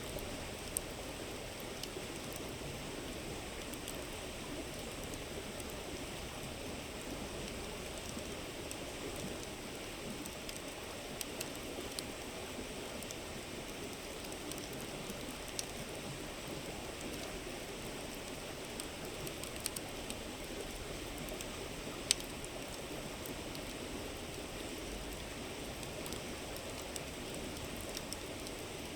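A river flowing in a steady rush, with campfire wood crackling in scattered sharp pops over it and one louder pop about three-quarters of the way through.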